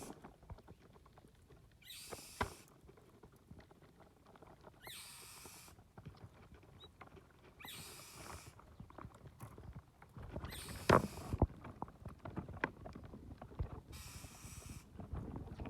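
A short rasping hiss repeats about every three seconds, over scattered soft rustling and small knocks that grow busier in the second half.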